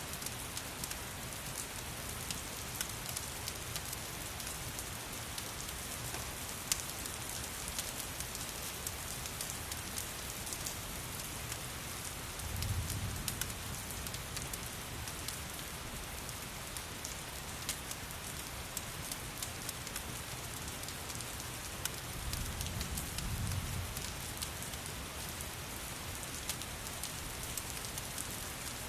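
Steady rain hissing, with scattered sharp crackles from a fireplace. A low rumble swells twice, about halfway through and again near the end.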